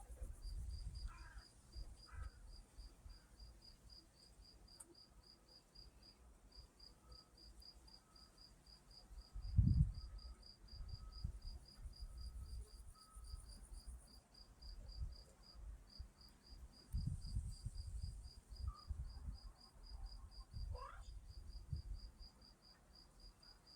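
A cricket chirping steadily at a high pitch, about five even chirps a second, with a couple of brief pauses. Occasional low rumbles and thumps come and go underneath, the loudest about ten seconds in.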